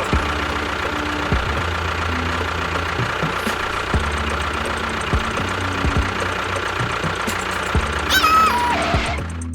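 An engine running steadily, with a short high squeal falling in pitch about eight seconds in.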